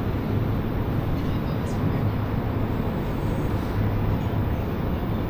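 Montreal metro train, heard from inside the car: a steady rumble with a constant low hum.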